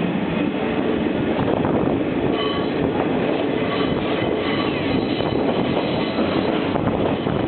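Cercedilla–Cotos mountain train running along the track: a steady rolling rumble, with faint high squeals coming and going.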